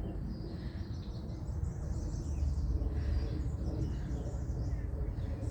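Outdoor ambience: a steady low wind rumble on the microphone, with faint birds chirping.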